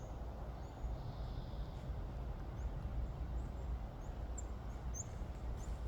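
Small birds giving short, high chirps now and then, more often in the second half, over a steady low rumble of wind on the microphone.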